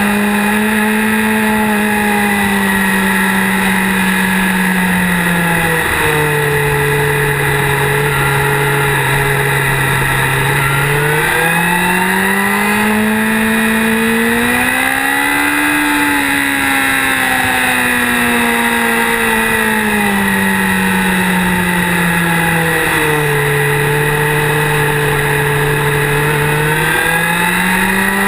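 Motorcycle engine under way on a twisty road, its note climbing and falling with the throttle. The pitch drops suddenly about six seconds in and again about twenty-three seconds in, with a long smooth rise and fall between.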